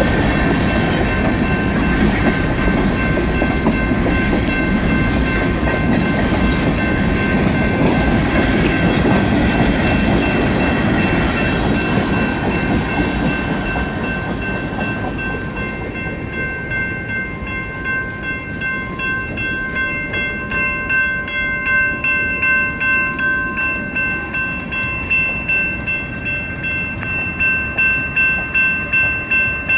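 Railroad tank cars of a freight train rumbling over the grade crossing, fading away about halfway through as the train clears. Under it the crossing signal's bells ring without pause, heard plainly as a steady ringing pulse about twice a second once the train has gone.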